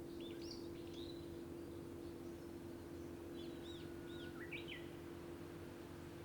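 Wild birds calling: a quick run of short arching chirps about half a second in, and another cluster of chirps with a brief flat whistle around the middle. Underneath is a steady low hum and the rumble of traffic.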